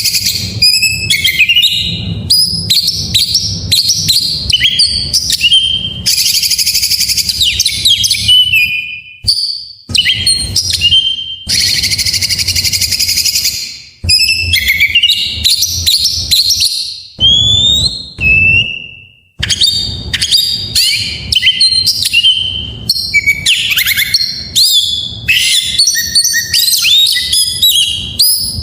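Oriental magpie-robin (kacer) singing a long, varied song of quick whistles, chirps and trills packed with mimicked phrases. Two longer harsh, rasping passages come about a quarter and half way through. A steady low hum lies underneath.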